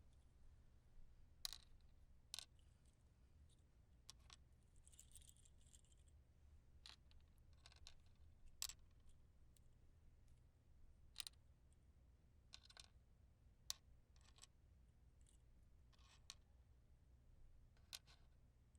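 Faint, irregular light taps and clicks of small hard objects, about a dozen spread out, with a brief soft scratchy noise about five seconds in.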